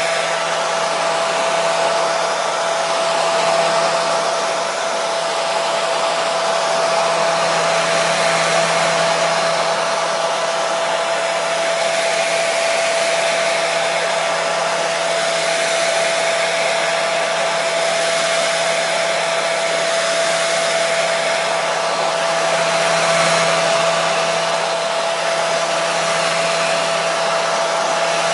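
Hair dryer running continuously at a steady speed: an even rush of blown air with a steady whine from the motor.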